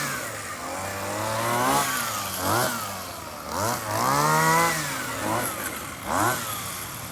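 Small two-stroke grass-cutter engine, fitted to a homemade RC car, revving up and dropping back to idle again and again in short bursts.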